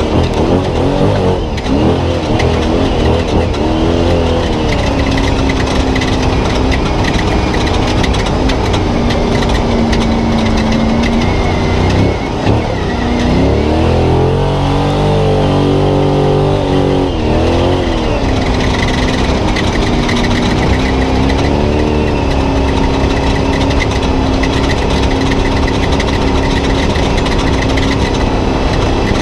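Spec Trophy Truck's engine heard from onboard, running at a mostly steady speed. It revs up and back down a few times, the biggest rise and fall about halfway through.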